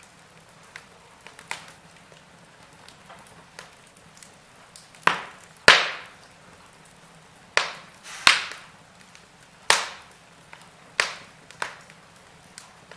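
Wood fire crackling in a fireplace: a few small snaps, then about half a dozen loud, sharp pops of burning wood from about five seconds in, over a faint steady background.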